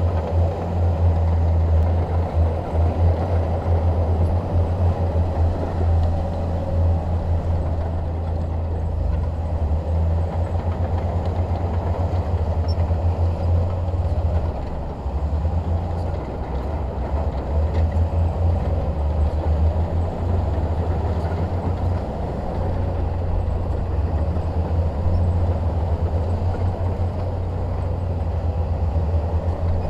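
Shantui DH17 bulldozer's diesel engine running steadily with a deep drone and mechanical rumble, easing briefly about halfway through.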